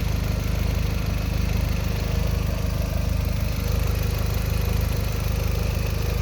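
Mk1 Audi TT 225's 1.8-litre turbocharged four-cylinder engine (BAM) idling steadily.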